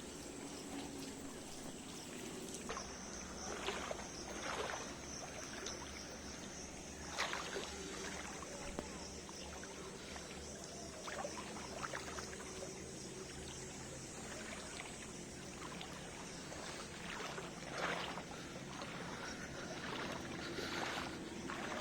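Steady rain with water running and trickling, and a few brief louder moments.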